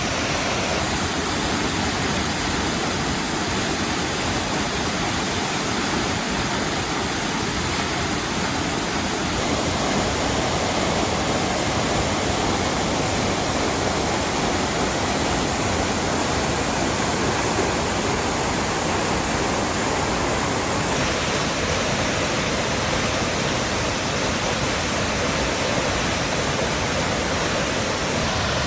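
A large waterfall rushing steadily with heavy flow, an even roar of falling water. Its tone shifts abruptly a second in, about nine seconds in and about twenty-one seconds in.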